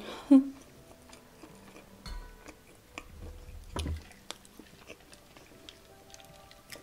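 A brief hummed "mm" at the start, then soft close-mouthed chewing of cheese-dipped fried chicken with small scattered clicks. About four seconds in, a short knock as a glass of iced cola is picked up.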